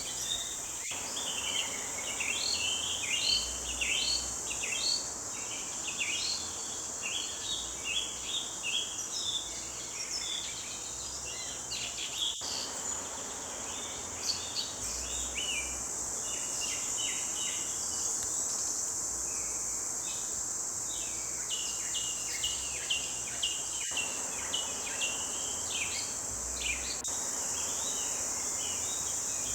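Several songbirds singing in a forest chorus, a dense run of short chirps and trills that overlap one another, over a steady high-pitched drone.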